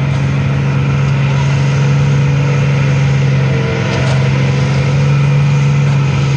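Pulling tractor's engine running hard at a steady, high pitch while hauling the brake sled down the track.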